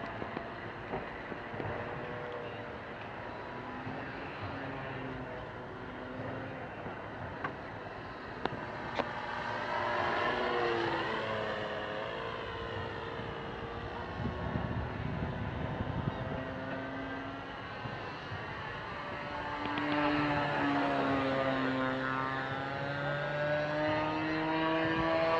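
Gasoline engine of a single-propeller radio-controlled model aeroplane in flight, a steady drone whose pitch rises and falls several times as the plane passes and changes throttle.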